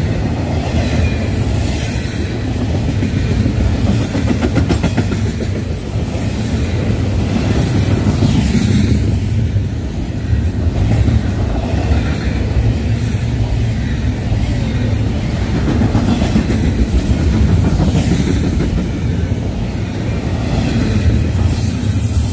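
Double-stack intermodal freight train rolling past at trackside: a loud, steady rumble of steel wheels on the rails as the container-laden well cars go by.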